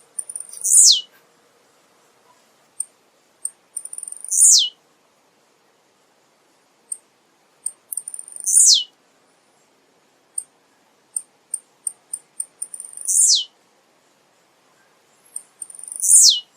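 Male blue-black grassquit (tiziu) singing: five short songs about four seconds apart. Each is a few quick high ticks followed by a fast note that falls steeply in pitch. Scattered single high ticks come between the songs.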